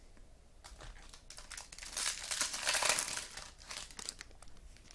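Crinkling and rustling of a plastic trading-card pack wrapper being handled and opened, a dense crackle that is loudest in the middle.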